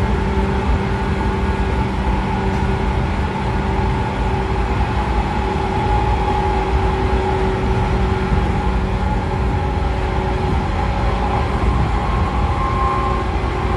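JR 113 series electric train running at speed, heard from its motor car: the MT54 DC traction motors and gearing hum steadily over the rumble of the DT21B bogies on the rails.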